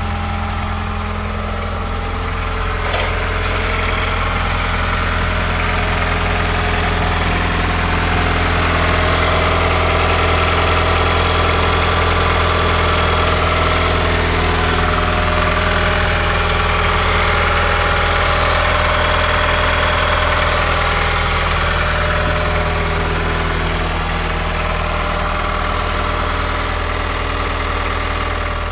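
Mazda Skyactiv-G direct-injection gasoline engine idling steadily on a cold start, with a rapid clicking from the high-pressure fuel pump on top of the engine: a normal trait of direct injection, not a fault. The sound grows a little louder about eight seconds in.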